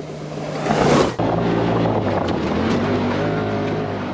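Polaris RZR Pro XP side-by-side's engine running while riding, with a loud rushing noise over it for the first second that cuts off abruptly. After that the engine runs steadily, its pitch rising a little about three seconds in.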